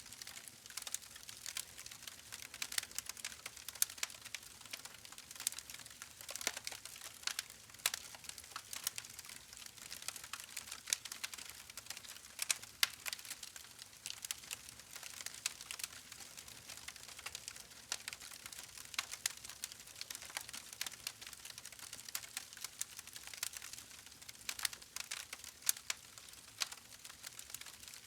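Campfire crackling: irregular sharp pops and snaps from the burning wood over a soft steady hiss.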